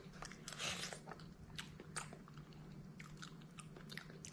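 A person chewing a mouthful of soup with soft taro: quiet mouth clicks and smacks, with a faint steady low hum beneath.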